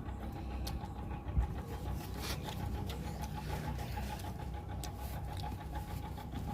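A person eating, with a few faint clicks and crackles of chewing and handling food over a steady low background hum.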